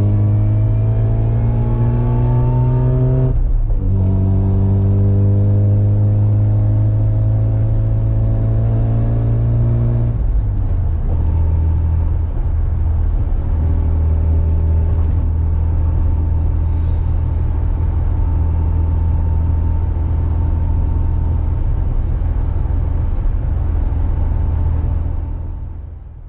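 Car engine accelerating hard through the gears: its pitch climbs, drops at a gear change about three seconds in, climbs again, then settles into a steady cruise from about ten seconds on and fades out near the end.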